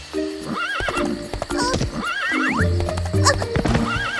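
Horse-like whinnying calls, three wavering trills about a second and a half apart, over background music.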